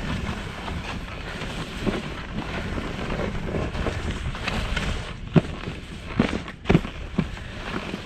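Skiing through snow: a steady scraping hiss of edges sliding over snow with wind on the microphone, and a few sharp knocks in the second half.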